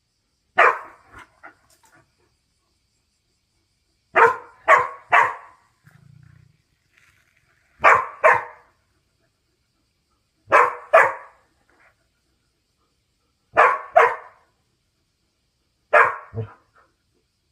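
A dog barking in short bursts of one to three sharp barks, about every three seconds, during rough play with another dog.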